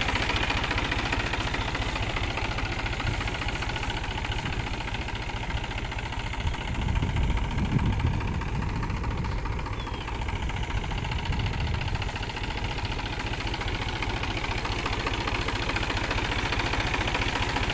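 New Holland 47 hp tractor's diesel engine idling steadily, its low end swelling a little louder for a few seconds midway, while an additive is dripped into its air intake.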